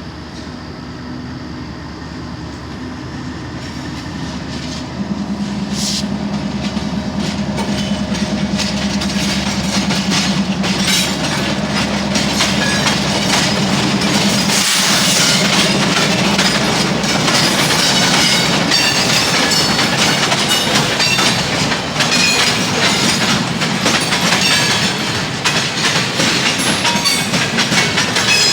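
CSX freight train passing, louder over the first dozen seconds, with a steady hum from the diesel locomotives and then a quick clatter of the cars' wheels over the rail joints.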